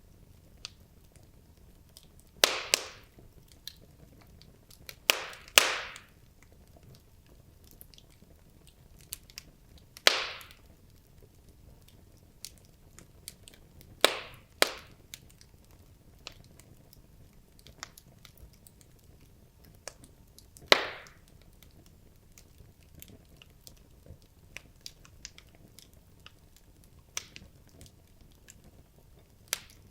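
Wood logs burning in a fireplace and crackling: a scatter of small ticks with about seven loud, sharp pops, each trailing off in a brief hiss.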